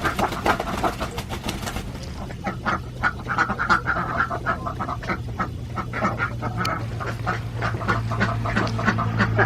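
A flock of Alabio ducks quacking, many short calls overlapping one another, over a steady low hum.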